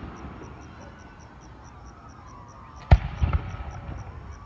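Fireworks: one sharp, loud aerial shell bang about three seconds in, followed by a few smaller pops.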